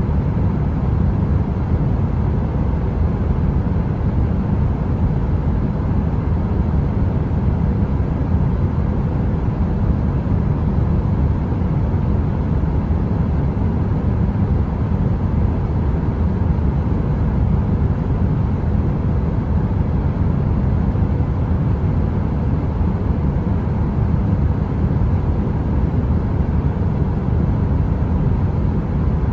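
A heater running: a steady, deep whooshing noise, heaviest in the bass, with a faint steady hum on top.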